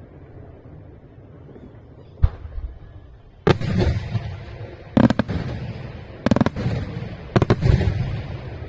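Aerial firework shells bursting over a low steady rumble. One sharp bang comes about two seconds in, then four louder bursts about every second and a half, some with two or three quick reports. Each burst is followed by a rolling echo.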